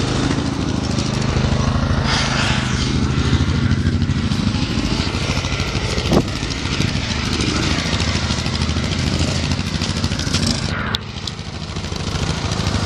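Tractor engine running steadily while driving, dipping briefly in level about eleven seconds in.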